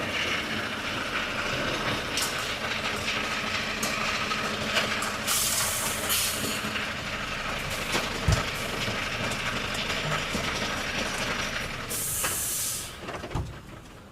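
Volvo FH truck running, with two short hisses of compressed air from its air brakes, one about five seconds in and one near the end, and a couple of dull knocks.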